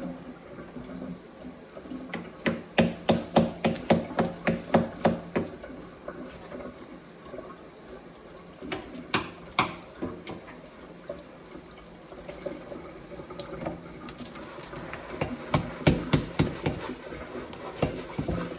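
Tap water running into a sink, with a Moluccan cockatoo bonking its beak in quick runs of sharp knocks, about three a second, a couple of seconds in and again near the end. The beak bonking is a sign of a happy, excited bird at bath time.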